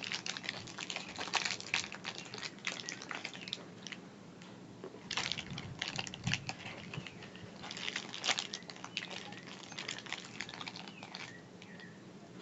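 Irregular crackling and clicking in several clusters, the sounds of snacks being handled and eaten close to the microphone.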